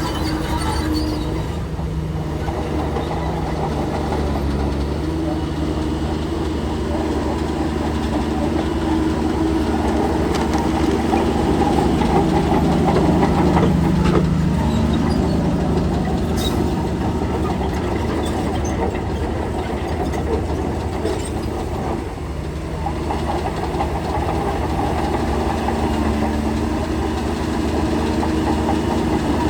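Bulldozer's diesel engine running under load, its pitch rising and falling as it works, loudest about halfway through.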